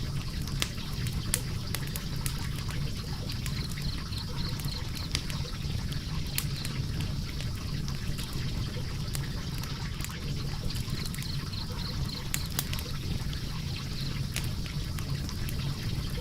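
Log fire burning in a fireplace: a steady low rush of flames with frequent sharp, irregular crackles and pops from the wood.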